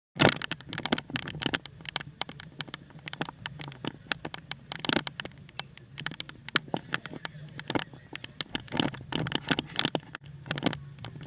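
Paintball markers firing: many sharp pops at uneven spacing, some in quick rapid-fire clusters, over a low steady hum.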